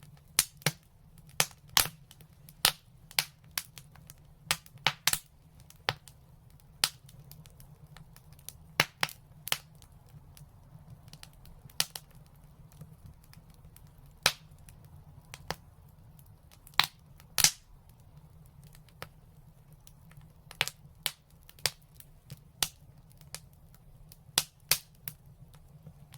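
Fireplace fire crackling: irregular sharp pops and snaps, sometimes several in quick succession, over a low steady rumble.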